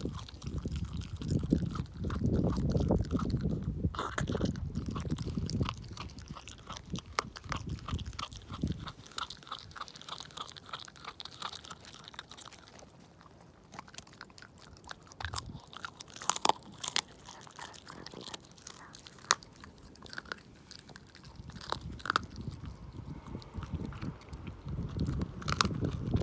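A Shiba Inu chewing and crunching raw chicken wing tips, bone included. The heavy crunching is loudest for the first nine seconds or so, then gives way to quieter chewing with scattered sharp cracks.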